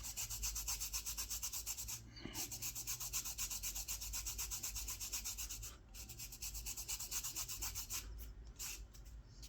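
Coffee being rubbed back and forth into the knife-cut kolrosing lines of a wooden spoon, to darken the design: quick scrubbing strokes, about six a second, with short breaks about two and six seconds in, slowing and thinning near the end.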